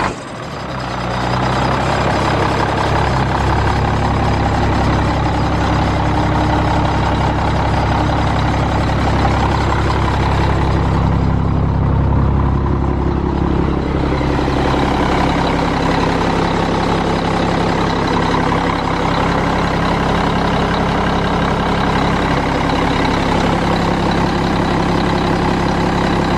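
1997 Freightliner heavy truck's diesel engine idling steadily, just after being started.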